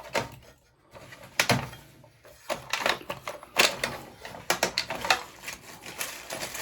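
Rummaging through a box of small metal tools and bits: repeated clicks and clatters as pieces are moved about.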